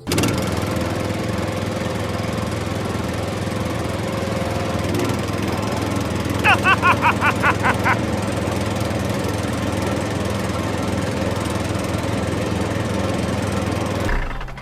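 A small engine running steadily at an even pace, with a quick string of about ten short rising chirps about halfway through.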